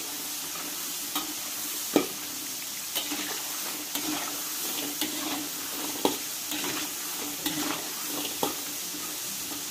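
Diced potatoes frying in hot oil in a wok with a steady sizzle. A spatula stirs and turns them, knocking and scraping against the wok about once a second, most sharply about two seconds in.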